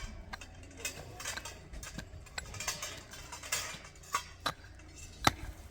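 Scattered light clinks and knocks of small hard objects being handled, with a few sharper clicks near the end.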